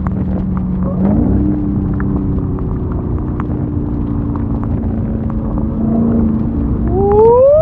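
Supercharged 6.2-litre HEMI V8 of a Dodge Challenger SRT Hellcat Redeye cruising at a steady engine note, stepping up in pitch about a second in. Near the end it revs up sharply under acceleration and then drops off.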